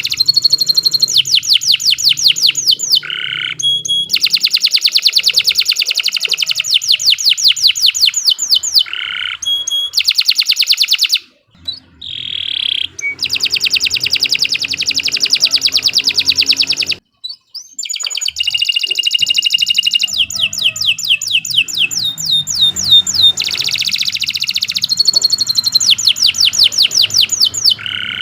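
Domestic canary singing long, continuous phrases of rapid trills, each a fast run of evenly repeated notes, with two brief pauses about eleven and seventeen seconds in.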